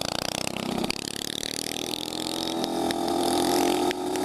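Small single-cylinder motorbike engine running at low revs. It sags about a second in, then picks up and revs higher from about two and a half seconds in as the bike accelerates.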